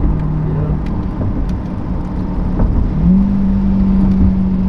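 2021 C8 Corvette's 6.2-litre V8 with an LMR stainless cat-back exhaust, heard from inside the cabin, running with a steady low drone as the car slows at low speed. The drone steps up in pitch about three seconds in.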